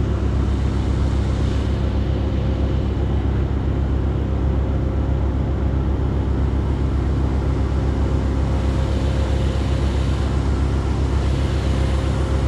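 An engine running steadily at one constant speed, with a low, even hum that does not rise or fall.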